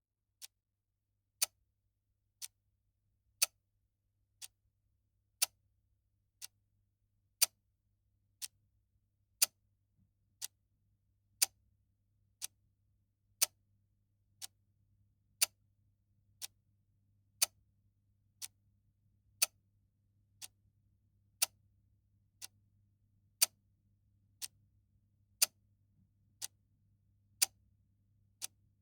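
Clock ticking exactly once a second, an even tick-tock with every other tick louder, over a faint low hum.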